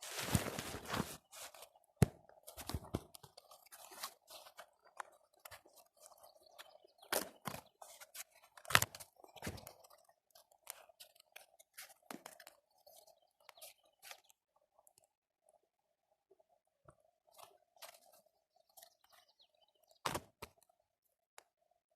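Small campfire of twigs and bark crackling, with scattered sharp snaps and crunching as more bark is pushed in; the fire is struggling to catch in damp wood.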